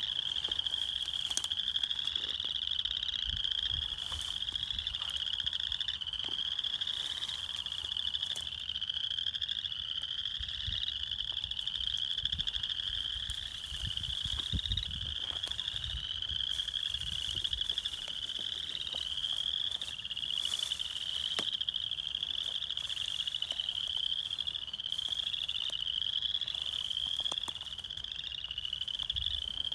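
A dense chorus of small frogs calling from a pool, with many high-pitched rising calls overlapping without a break. There is some wind rumble on the microphone.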